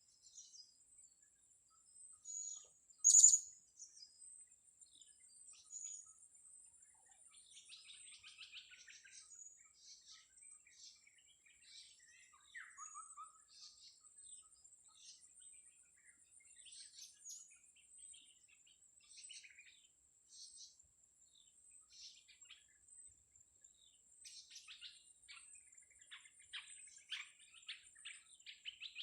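Small birds chirping: many short, high chirps scattered through, with one loud, sharp chirp about three seconds in and a denser run of chirps near the end, over a steady high-pitched whine.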